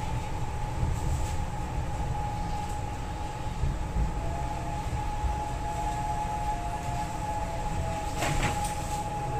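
MTR East Rail line R-train electric multiple unit running, a steady high whine over a low rumble. A second, lower whine joins about halfway, and a brief sharp noise comes near the end.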